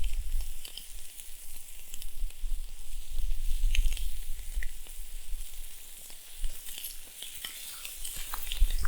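Bacon and chicken frying on the hot Biji plate over a campfire: a steady sizzle broken by scattered small pops and crackles. Gusts of wind rumble on the microphone now and then.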